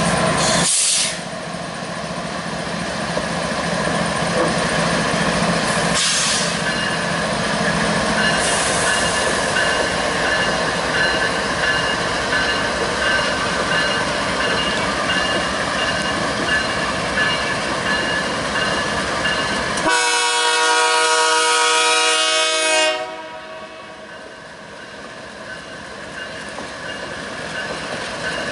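Freight train locomotives and cars rolling past with a steady rumble and intermittent high wheel squeal. About twenty seconds in, a train horn sounds once for about three seconds.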